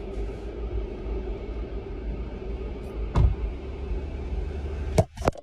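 Steady low rumble inside a car with the engine running. A thump about three seconds in, then two sharp clicks near the end as a car door opens.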